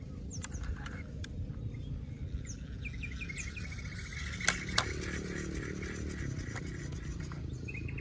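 Outdoor ambience: birds chirping in short calls and a quick run of chirps, over a steady low rumble. Two sharp clicks come close together about halfway through.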